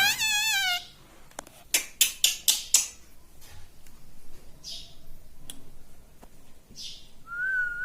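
Pet talking parrot calling. A wavering, drawn-out call trails off just under a second in, followed by a quick series of sharp clicks and, near the end, a rising whistle.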